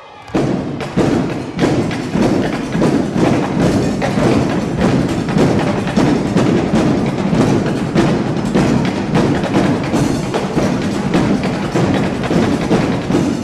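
Drum line playing a loud, fast cadence of rapid drum hits, kicking in suddenly just after the start.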